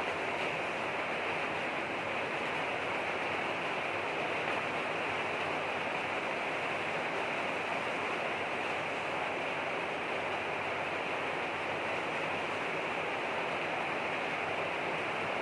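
Rain falling steadily: an even, unbroken hiss with no single drops or other sounds standing out.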